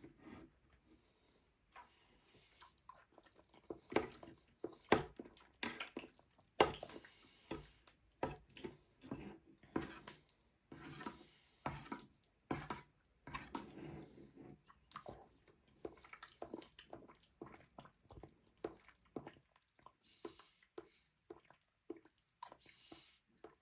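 Close-up mouth sounds of someone eating curd and honey: irregular wet smacks and squishy chewing, with a few sharper clicks.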